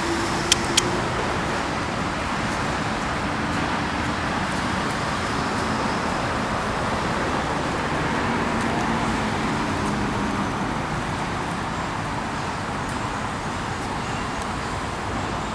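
Steady background road-traffic noise, with two short clicks about half a second in.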